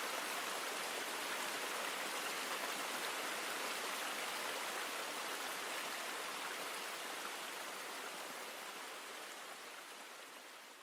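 Flowing river water, a steady rushing that fades out gradually over the last few seconds.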